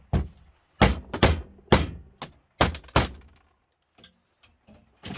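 Hammer blows striking a part of a stripped humidifier unit to knock it clean off the copper for scrap. About nine sharp strikes come in quick, uneven succession over the first three seconds, then a few lighter knocks near the end.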